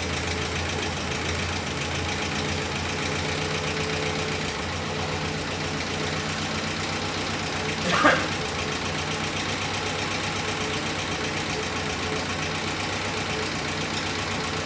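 Jeep M170's four-cylinder F-head engine idling steadily with a knock, which the owner takes for rod knock in the freshly rebuilt engine. About eight seconds in there is one short, loud sound over the idle.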